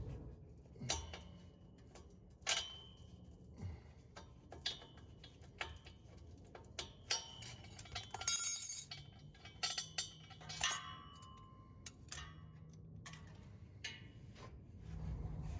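Light metallic clinks and taps as exhaust hardware and tools are handled during exhaust removal. Irregular single knocks, some ringing briefly, with a longer ringing clink partway through.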